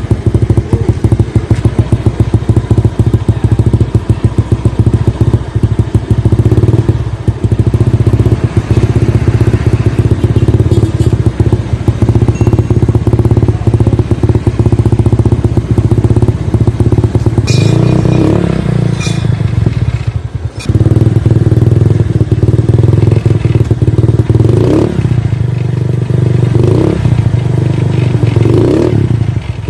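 Suzuki Spin scooter engine idling loud and fast-pulsing through a hollowed-out (bobok) exhaust, with a sharper throttle blip about two-thirds of the way in and a few short revs near the end.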